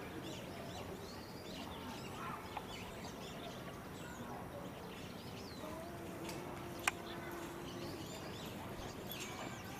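Small birds chirping in short, repeated calls over a low murmur of background voices, with a single sharp click about seven seconds in.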